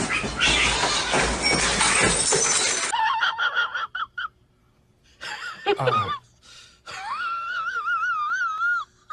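A loud, continuous crash and clatter of items knocked over on a cluttered desk by a leaping cat, lasting about three seconds and cutting off suddenly. Then come high, wavering vocal sounds: two short ones, and a longer warbling one near the end.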